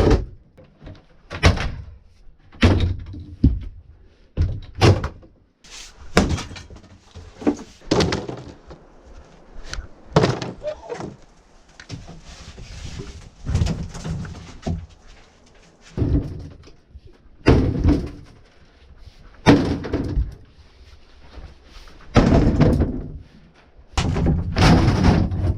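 Repeated heavy thuds and clattering crashes of debris being broken up or thrown down, coming irregularly every second or two, some trailing into longer rattling clatter.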